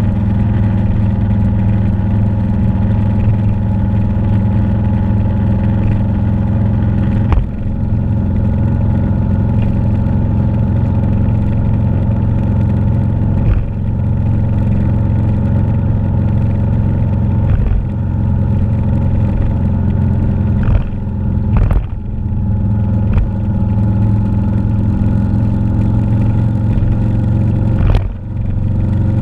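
Motorcycle engine running steadily on the road, its drone breaking off briefly about six times.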